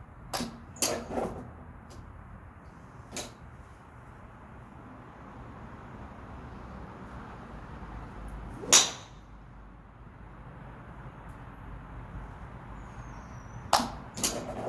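Golf clubs striking balls, several sharp cracks: a few near the start, a faint one about three seconds in, a much louder close one past the middle, and two more near the end.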